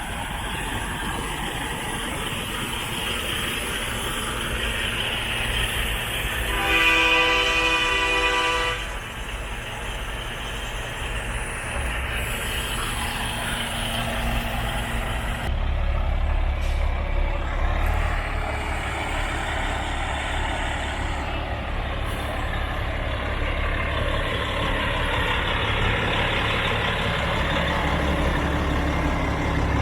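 Heavy diesel trucks running and driving past in a steady low rumble, with one air-horn blast lasting about two seconds around seven seconds in; the rumble grows heavier about halfway through.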